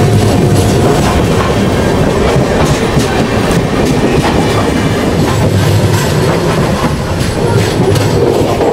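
Punjab Mail express overtaking on the adjacent track, heard from alongside on another moving train: a loud, steady rumble of coaches and wheels at speed, with clickety-clack over rail joints.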